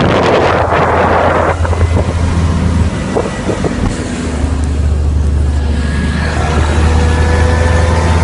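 Fendt 720 tractor's diesel engine running with the exhaust removed, a loud, deep drone. It eases off about three seconds in and comes back up about a second later, with a rushing hiss over it in the first second and a half.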